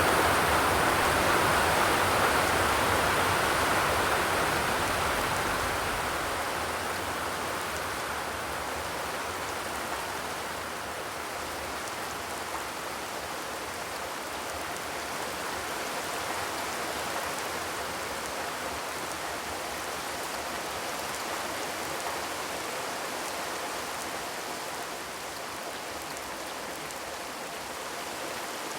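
Steady rain falling, with no thunder. It is louder at first and eases over the first ten seconds or so, then holds steady.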